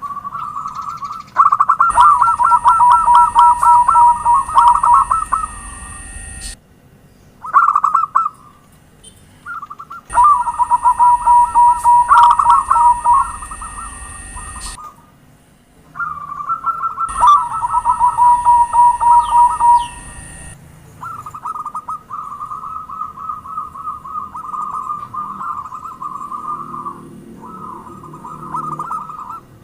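Zebra doves (perkutut) cooing: rapid staccato coo phrases repeated over and over, in three loud stretches that start and stop abruptly, with softer cooing between them.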